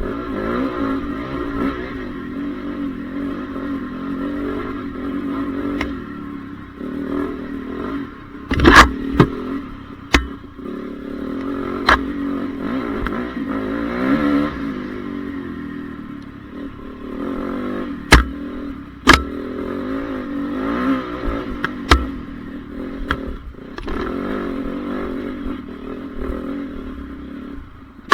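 Honda CRF450R motocross bike's four-stroke single-cylinder engine, revving up and down continuously as it is ridden round the track. Several sharp knocks or clatters cut through the engine sound at irregular moments.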